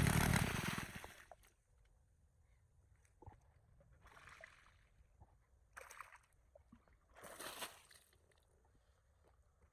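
Small four-stroke water pump engine running, then shutting off about a second in. Three short splashes of water follow.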